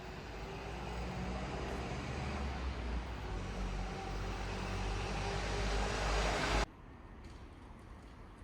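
Steady engine rumble that grows slowly louder, then cuts off abruptly about six and a half seconds in, leaving a quieter background.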